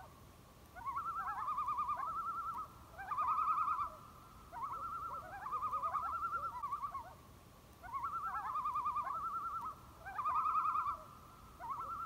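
A bird calling over and over: rapid warbling trills, each a second or two long, repeated with short gaps.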